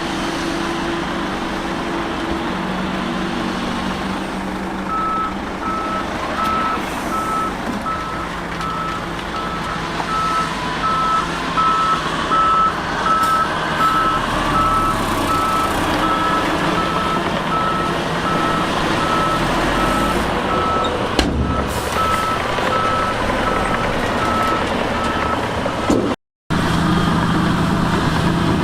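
Heavy diesel machine's reversing alarm beeping at one steady pitch over the engine running. The beeping starts a few seconds in and stops near the end at a brief cut-out in the sound; engine noise goes on after.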